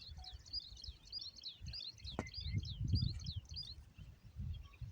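Small birds chirping, a quick run of short, high, curving notes repeated several times a second, over an uneven low rumble.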